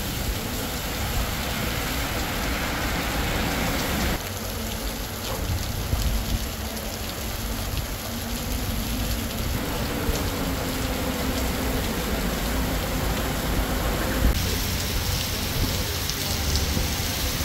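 Heavy downpour: rain pouring steadily onto paved streets and pavement, a dense, constant hiss of falling water that shifts abruptly twice.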